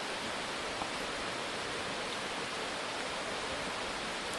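Steady rushing of a mountain stream over rocks, an even hiss with no breaks.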